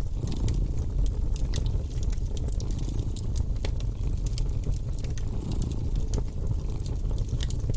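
Wood fire crackling in a fireplace, with irregular sharp pops and snaps, over a cat's steady low purr.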